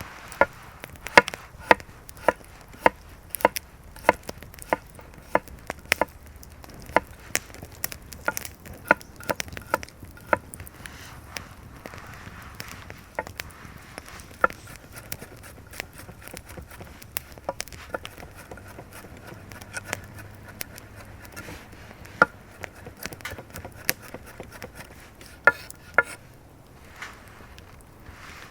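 Knife chopping food on a wooden cutting board: sharp taps about twice a second at first, then slower, irregular cuts.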